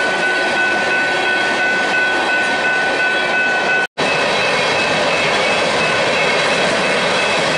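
Freight train of covered hopper cars rolling by. A steady high-pitched tone rides over the rumble for the first half; after a brief dropout about four seconds in, there is a steady rush of the hopper cars passing.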